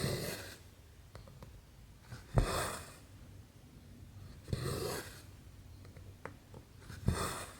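Embroidery thread being drawn through cross-stitch canvas: four swishes, each about half a second long and coming roughly every two and a half seconds, each opening with a sharp tick as the needle passes through the fabric. Small clicks and taps fall between the pulls.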